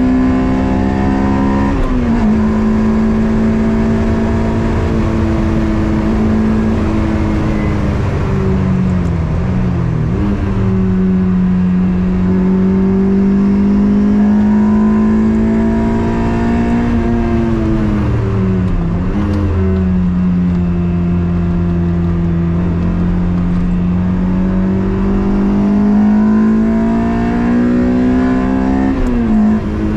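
Toyota MR2 with a swapped-in 2ZZ-GE 1.8-litre four-cylinder engine under load on track. The engine pitch rises and falls slowly, with several abrupt drops at gear changes.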